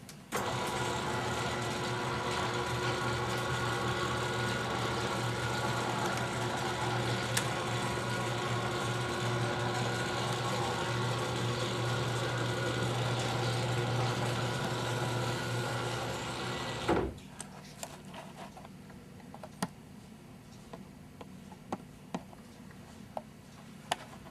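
Electric motor of a pop-up TV lift running steadily for about seventeen seconds, then stopping abruptly with a clunk; a few light ticks follow.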